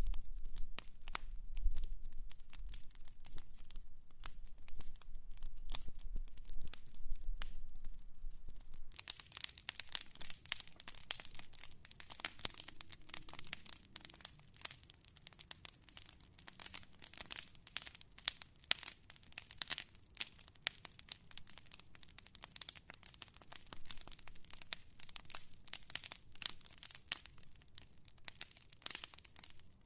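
Fire crackling with dense, irregular pops and snaps. About nine seconds in a low hum drops away and the crackling turns denser and brighter.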